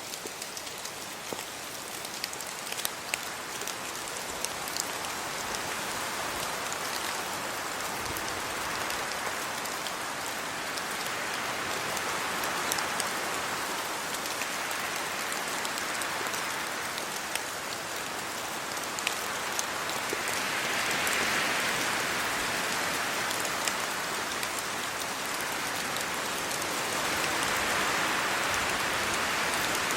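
Steady rain falling on leaves and the ground, with close drops ticking. Gusts of wind through the trees swell it louder a few times, most strongly about two-thirds of the way in and again near the end.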